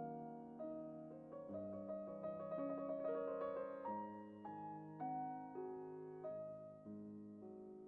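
Solo piano music: slow, gentle chords and single notes, each struck and left to fade, with a quick run of notes in the middle.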